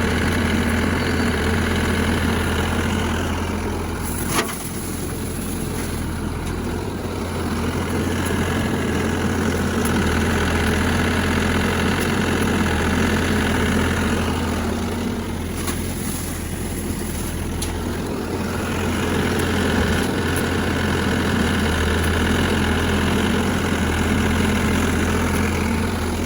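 Heavy diesel engine running steadily at a low, even hum. Its higher-pitched noise drops away twice for a few seconds, and there is one sharp click about four seconds in.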